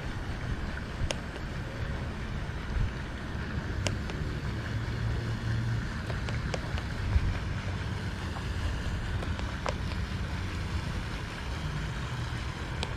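Wind rumbling on the microphone over a steady outdoor background, with a few faint clicks every few seconds.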